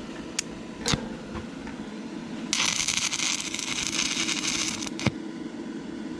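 Stick-welding arc from an inverter arc welder burning a 6011 rod: a dense crackle that starts sharply about two and a half seconds in and cuts off about two seconds later, while the welder seems to be losing power. A few sharp clicks come before it and one after, over a steady low hum.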